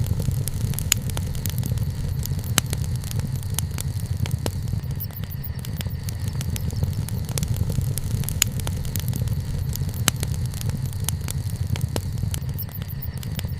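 Wood bonfire crackling, with frequent sharp pops at irregular moments over a steady low rumble.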